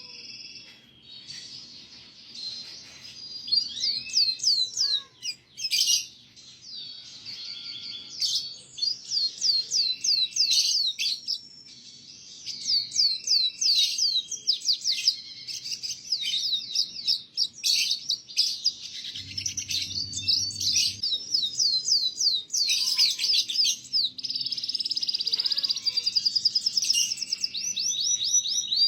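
Domestic canary singing a long, continuous song of fast trills and rapidly repeated down-sweeping notes, with only brief pauses.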